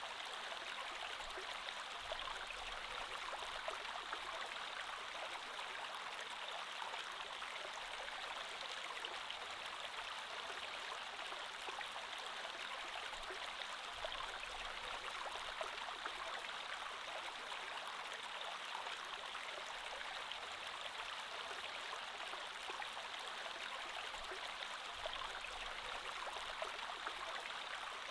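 Creek water flowing over stones: a steady, even rush with fine splashing and no break.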